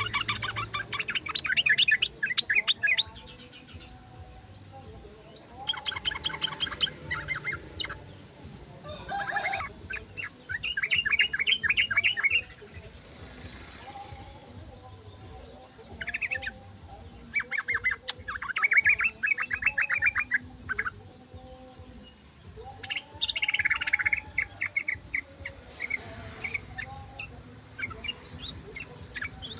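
Yellow-vented bulbul (trucukan) singing in a run of fast, rattling trilled phrases, each one to three seconds long, with short pauses between them.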